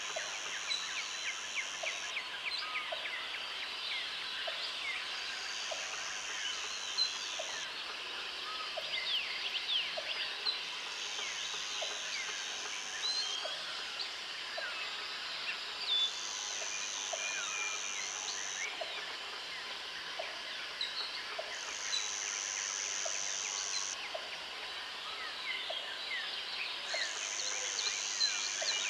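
Tropical forest ambience: many birds chirping and calling together, while an insect's high buzzing trill comes in for about two seconds roughly every five seconds, six times over.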